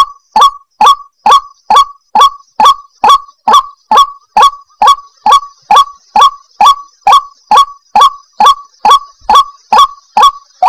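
White-breasted waterhen calling: a loud, unbroken run of short harsh 'kruak' notes, about two a second, each note rising quickly in pitch.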